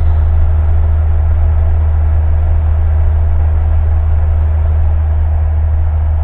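Single-engine Cessna's piston engine and propeller running steadily in flight, a loud, even low drone heard from the cockpit.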